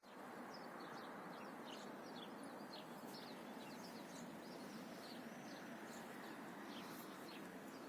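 Small birds chirping many times in quick short calls over a steady background hiss.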